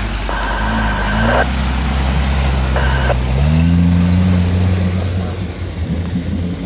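Suzuki Samurai's engine pulling steadily under load as the 4x4 wades through a river, its pitch stepping up about three and a half seconds in as it is given more throttle, with water churning around the wheels.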